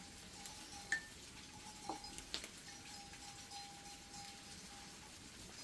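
Faint light clinks: a few short knocks, about a second and two seconds in, over a faint steady tone.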